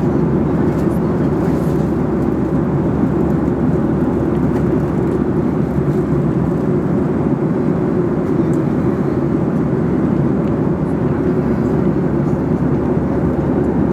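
Steady jet airliner cabin noise in flight: engine and airflow noise heard from inside the passenger cabin, strongest in the low range and unchanging throughout.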